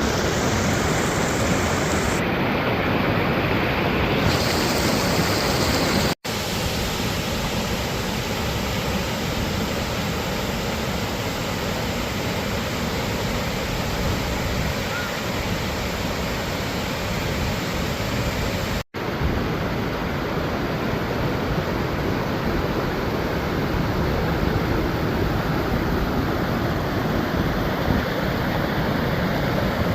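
Waterfall rushing: a loud, steady roar of falling water. It cuts out for an instant twice.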